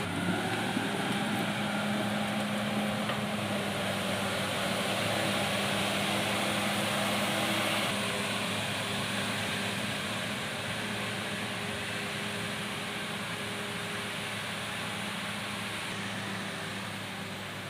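Komatsu D68ESS bulldozer's diesel engine running steadily, easing off a little about eight seconds in.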